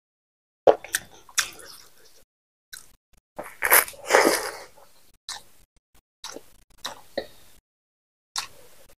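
Close-miked mouth sounds of eating rice and pork fat by hand: chewing and smacking in separate bursts, loudest about four seconds in as a handful goes into the mouth, with short smacks in between.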